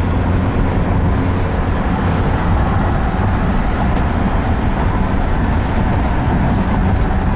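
Steady low rumble of road, tyre and engine noise inside a car's cabin while driving on a freeway.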